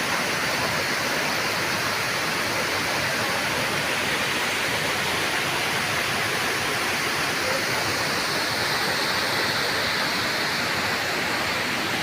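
Waterfall crashing down, a steady, even rush of falling water.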